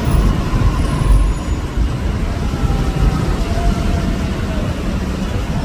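Road vehicle noise: a steady, heavy low rumble.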